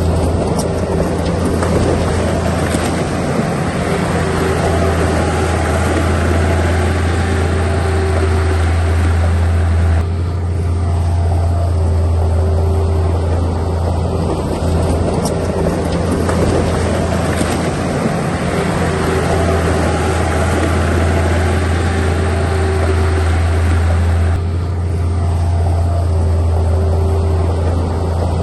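Heavy earthmoving machinery's diesel engine running steadily, a deep continuous drone. Its sound changes abruptly about ten seconds in and again near the end.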